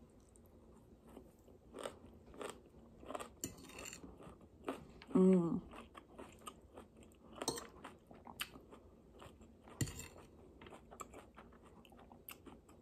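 Close-up chewing of water-sautéed kale: a string of small crunches and wet clicks as the tough leaves are chewed. A brief hummed voice sound comes about five seconds in.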